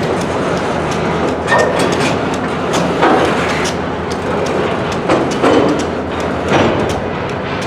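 Freight train rolling through a rail yard: a steady rumble of railcar wheels with irregular clacks as the wheels pass over rail joints.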